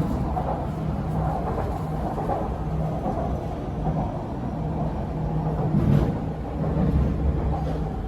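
Cabin noise of an MRT Purple Line electric metro train running between stations: a steady rumble with a low motor hum that swells and fades.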